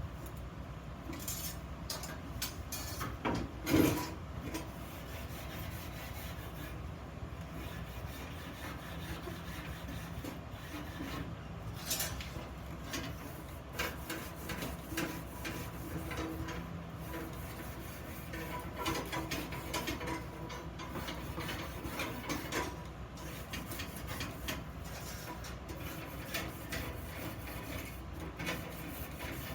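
Hand work on iron parts: rubbing and scraping with scattered clicks and light knocks, one louder knock about four seconds in, over a steady low hum.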